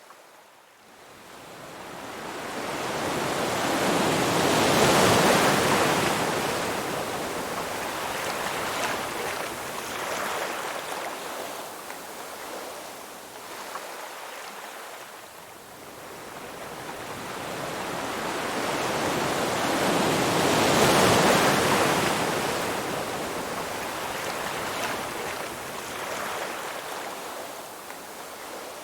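Ocean waves breaking on a shore: two large waves, one about five seconds in and another near twenty-one seconds, each building up to a peak and then fading slowly as the water washes back.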